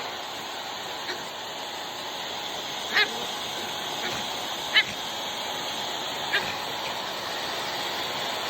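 Hair dryer blowing steadily while a Pomeranian gives three short, high yips a second or two apart.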